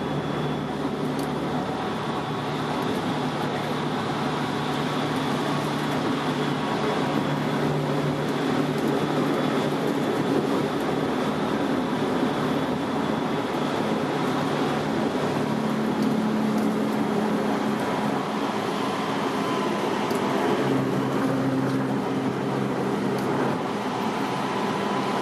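Tokyo Metro 06 series electric train running, heard from inside the car: steady wheel-on-rail and running noise with steady whines from the traction motors that shift in pitch a couple of times as the speed changes.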